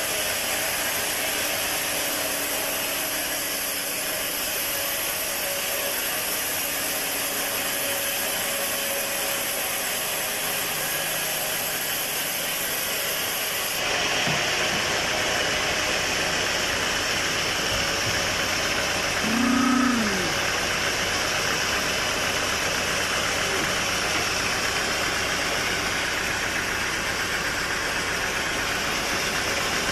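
Sawmill engine running steadily between cuts, its sound changing abruptly about halfway through. A short rising-then-falling tone stands out briefly about two-thirds of the way in.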